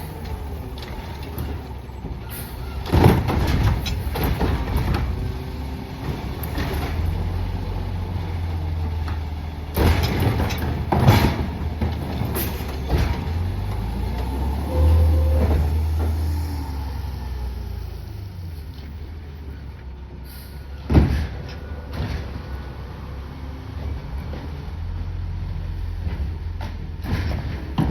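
CNG Peterbilt 520 garbage truck running with a steady low rumble, broken by several sharp clanks: one about three seconds in, two around ten to eleven seconds, and one near twenty-one seconds.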